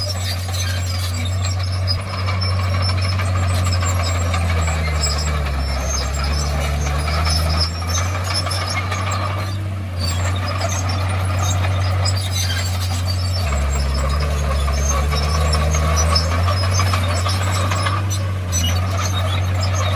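Komatsu D51PX bulldozer's diesel engine running hard, with clatter from the steel tracks over it. The engine note drops twice, from about four to eight seconds in and again from about thirteen to sixteen seconds, then picks back up.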